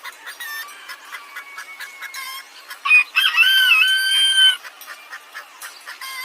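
A rooster crowing once, a loud held call about a second and a half long, a few seconds in. Short high chirps and clucks from other chickens go on around it.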